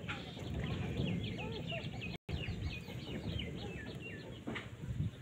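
Birds calling from the surrounding wetland and village: a quick run of short, high, falling notes, several a second, over lower curving calls and a steady low rumble. The sound cuts out briefly a little past two seconds in.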